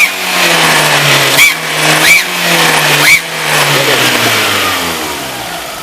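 VW Gol G3 engine revved in four quick blips, then settling back down toward idle. The exhaust leaks at a blown manifold gasket, where the joint with the exhaust manifold makes a horrible noise and puffs air out with each rev.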